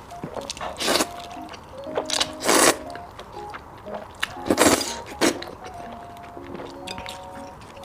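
Close-miked mouth eating sounds: loud bites and chews of food about a second in, at two and a half seconds, and twice around five seconds, over quiet background music of short notes.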